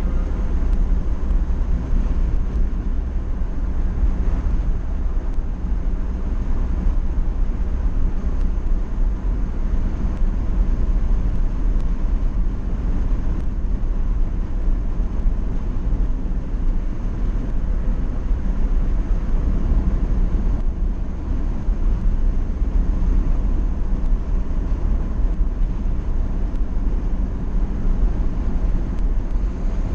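Riding a motorcycle, heard from a helmet-mounted camera: steady wind rush on the microphone over the running motorcycle engine and road noise.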